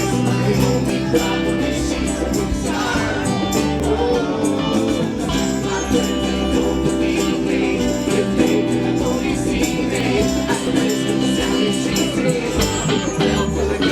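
Live rock band playing an instrumental passage, with guitars, bass, drums and a jangling tambourine.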